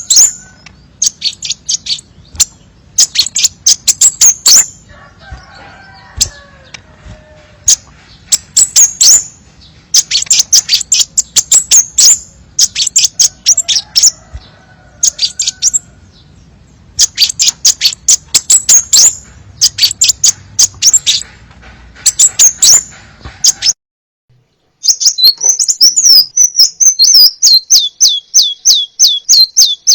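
Crimson sunbird song: bursts of rapid, high, thin chirps, repeated every second or two. After a brief break a little before the end, it gives a fast run of high notes that step down in pitch.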